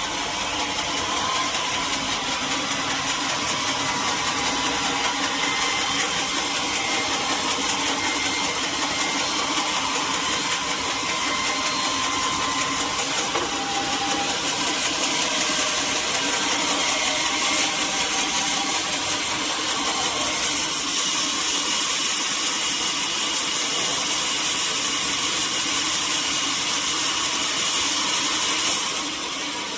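Sawmill machinery running steadily, a constant loud mechanical noise with a strong hiss.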